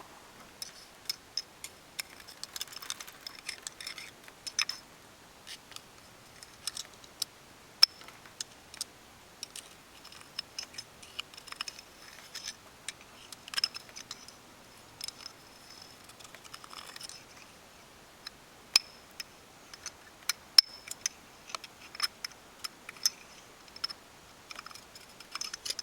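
Irregular clicks and light metallic clinks of small hydraulic-cylinder parts being handled and worked loose by hand: seals, rings and spacers off the crane cylinder's gland and rod.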